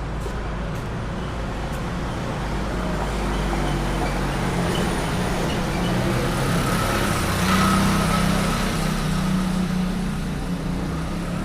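Street traffic with a motor vehicle's engine running close by, growing louder to a peak about two-thirds of the way through and then fading as it passes.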